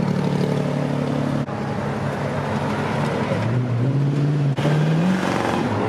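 Car engines running as cars drive past at a cruise. About three and a half seconds in, one engine note climbs steadily as that car accelerates, and the sound breaks off sharply twice.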